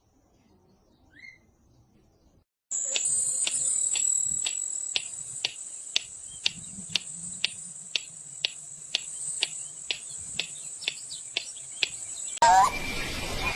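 Insects, cricket-like, starting suddenly after a near-silent opening with one faint short rising chirp. They keep up a steady high-pitched buzz with sharp clicks about two a second. Near the end it cuts abruptly to a louder, noisier background.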